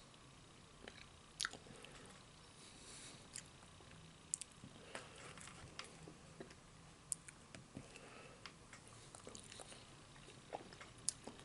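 Faint chewing of fast food, with scattered short, sharp mouth clicks and smacks.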